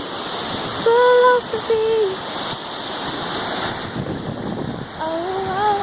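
A voice singing unaccompanied, holding a sung line about a second in and starting another phrase near the end, over a steady rush of ocean surf and wind on the microphone.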